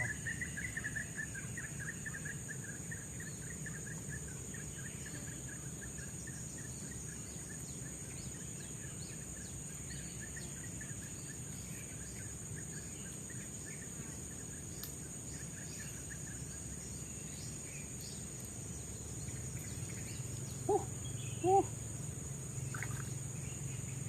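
Tropical forest ambience: a steady high insect drone, with a bird trilling in a long run of quick notes that fades out after about seventeen seconds. Near the end come two short, lower-pitched calls about a second apart, louder than the rest.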